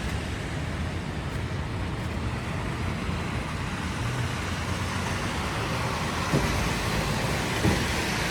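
City street traffic on a snowy road: passing cars and other vehicles making a steady low rumble and tyre hiss, with two light knocks near the end.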